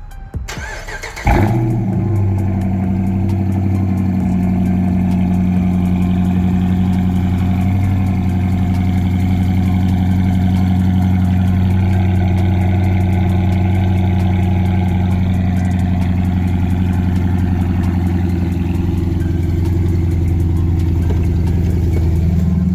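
A 5.7 Hemi V8 with an aftermarket exhaust is cranked and fires up about a second in with a sharp burst. It then settles into a steady, loud idle with a low exhaust rumble.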